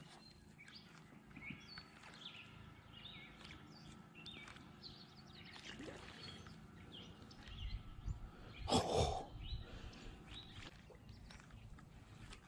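Birds chirping and calling in short high notes, with one brief louder rush of noise about nine seconds in.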